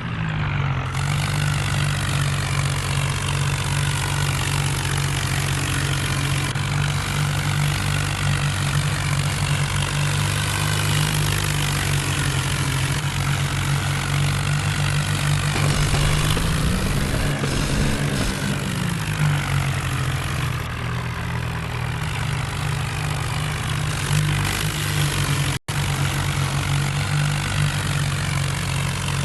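Tractor diesel engine running steadily, its pitch rising and then falling back once as it revs up briefly about two-thirds of the way through. The sound drops out for an instant near the end.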